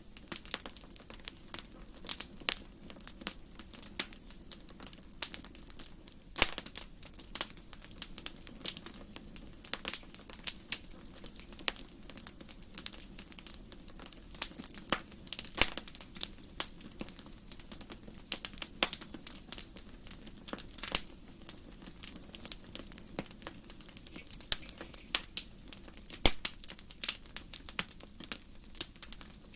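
Wood fire burning in a fireplace, crackling with irregular sharp pops and snaps over a faint low hiss of the flames.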